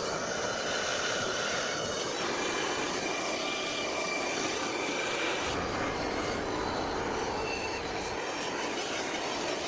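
Handheld gas torch flame burning steadily with a loud hiss, heating 2-inch copper pipe for soldering, with faint thin high whistles from the joint.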